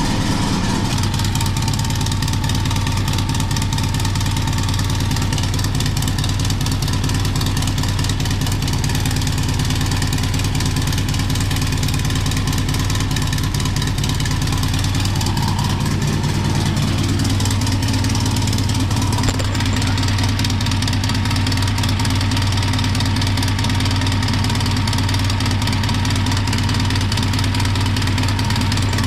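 A 1956 VW Beetle's air-cooled flat-four engine idling steadily, still warming up after a cold start. Its front cylinders, number one especially, are running cool, which the owner links to its grumpy running.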